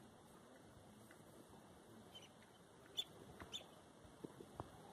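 Near silence outdoors, with a few faint, short bird chirps about three seconds in.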